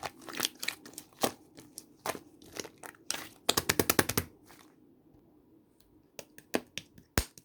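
Dried craft clay being crushed by hand: rapid crisp cracks and crunches, densest about three and a half seconds in, then a short pause and a few more single cracks near the end.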